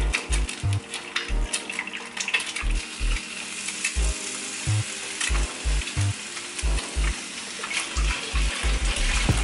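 Eggs and bacon sizzling in hot oil in a nonstick multi-well frying pan, with an egg dropped in at the start. Soft background music with a low steady beat runs underneath.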